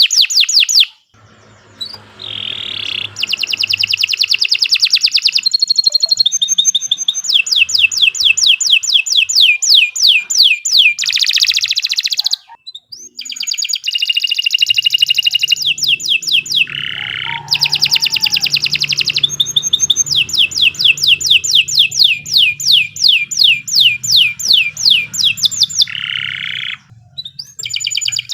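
Domestic canary singing a long, energetic song of fast repeated-note trills and rolls, with brief pauses about a second in and around the middle.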